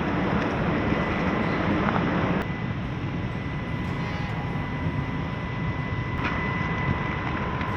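Small electric RC crawler truck being driven, its motor and gears whining steadily over a rough noise of tyres and ground, which drops a little about two and a half seconds in.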